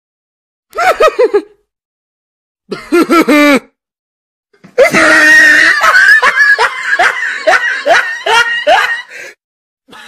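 Troll laugh meme sound effect: two short bursts of laughter, then a long laugh of quick, rising 'ha' pulses that fades away near the end.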